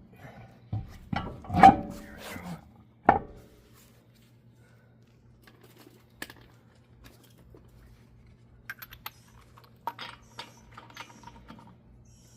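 A heavy truck wheel and tire being worked onto the hub studs: several metal knocks and clunks over the first three seconds, the loudest about a second and a half in. After a quiet stretch, a run of light metallic clicks starts near the end, as the lug nuts go on.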